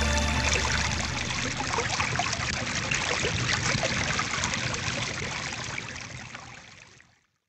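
Stream water trickling and bubbling, a steady babbling haze that fades out to silence about seven seconds in.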